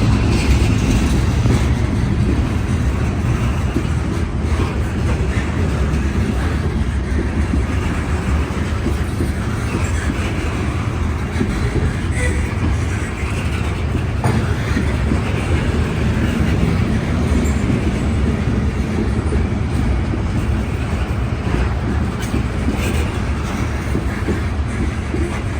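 A train rolling past: a steady, loud rumble of wheels on the rails.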